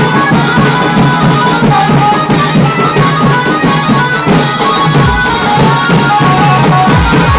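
A tasa band playing: fast, dense tasa drumming under a keyboard melody. About five seconds in, deep booming drum hits that drop in pitch come in.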